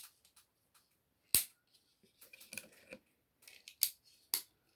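Plastic Lego bricks clicking as pieces are handled and snapped together: several sharp clicks, the loudest about a second and a half in, with lighter rattling and taps between.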